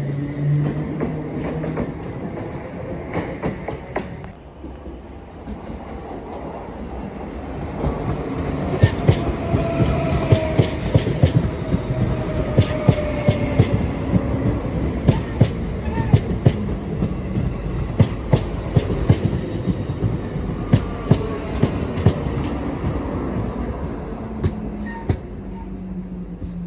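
A train passing, its wheels clicking over rail joints in a steady run of clacks for about a quarter of a minute, with a falling motor whine and faint high wheel squeal over a low rumble.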